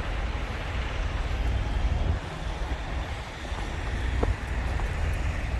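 Heavy truck's diesel engine running nearby, a steady low rumble with a hiss of outdoor noise over it.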